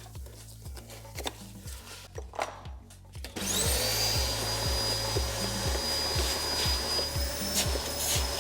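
Light scraping and clicking of hand work on a trim panel. About three and a half seconds in, a small electric motor switches on: its whine rises quickly, settles, and runs steadily.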